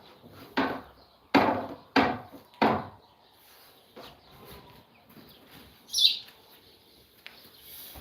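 Four knocks on wood: a light one, then three loud blows about half a second apart. A short high chirp follows near the end.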